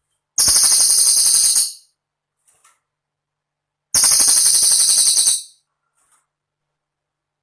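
A cililin songbird singing two high, rapid rattling trills, each about a second and a half long, a couple of seconds apart.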